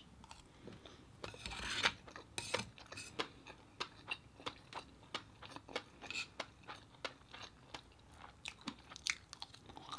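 Close-up chewing of a mouthful of rice with fish roe: soft, wet mouth clicks and smacks a few times a second. A spoon scrapes rice on a plate now and then.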